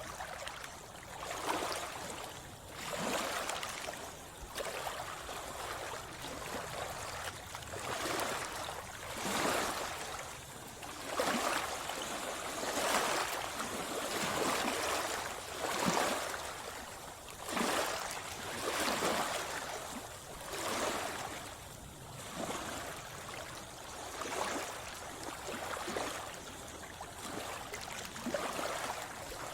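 Sea water splashing and sloshing close by, in short surges that come every one to two seconds.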